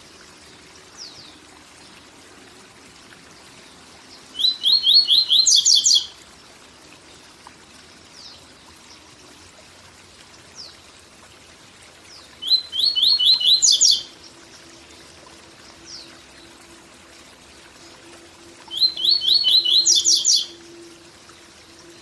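A papa-capim seedeater sings its 'tui tui zel zel' song: three phrases several seconds apart, each a quick run of repeated whistled notes followed by higher notes. Between the phrases there is a steady rush of waterfall water.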